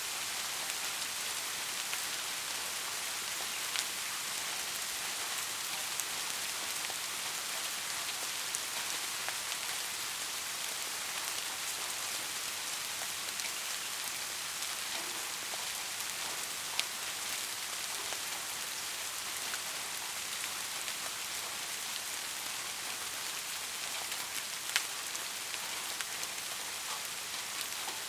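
Steady rain, an even hiss with a few sharper single drop hits standing out about 4, 17 and 25 seconds in.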